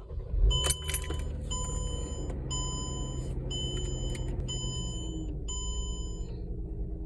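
Keys jangling and clicking in a car's ignition, then the car's electronic warning chime beeping about once a second, six times, with a low steady hum underneath. The car does not start.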